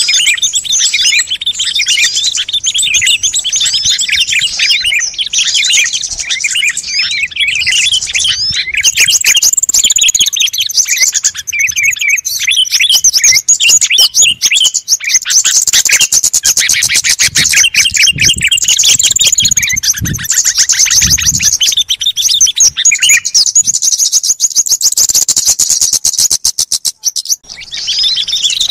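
A lure recording of small songbirds in a busy chorus: dense, overlapping high chirps and rapid trills, with a brief lull near the end.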